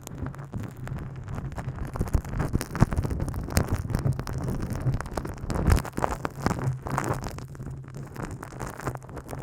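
Close-miked ASMR rubbing and tapping on the microphone: dense, irregular scratchy crackles with a few heavier knocks, over a steady low hum.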